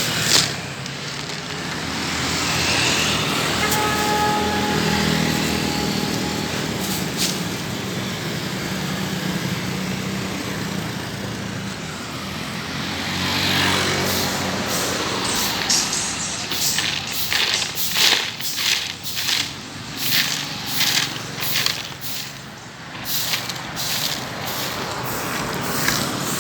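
Road traffic with a vehicle engine running steadily. Past the middle comes a run of rhythmic scraping strokes, about two a second, from sand being swept off the road surface.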